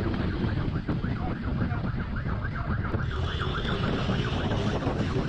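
Police siren yelping in fast repeated sweeps over heavy wind noise and a running motorcycle engine, with a steadier high tone about three seconds in.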